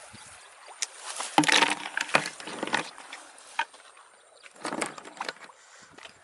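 Irregular splashing and knocking in shallow water, in two clusters of short bursts with sharp clicks.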